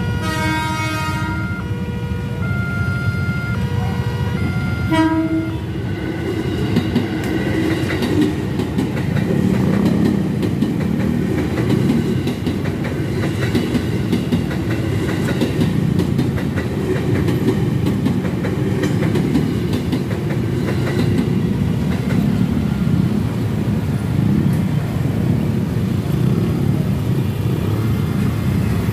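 Electric commuter train sounding several short horn toots, then passing through the level crossing with a steady rumble of wheels on the rails.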